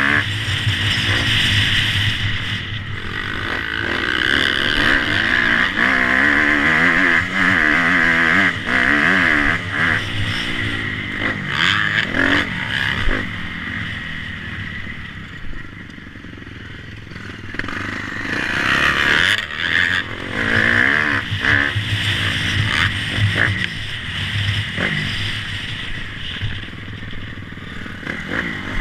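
Motocross motorcycle engines revving hard, rising and falling in pitch as the bikes accelerate and shift. The sound eases off about halfway through, then a bike comes loud again a few seconds later.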